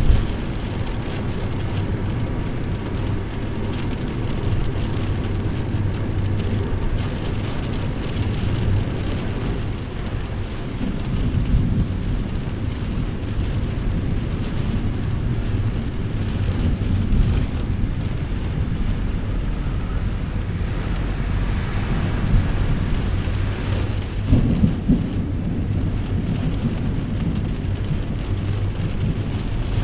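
Steady rain with low rolls of thunder, one about a third of the way in and another near the end, over a steady low hum.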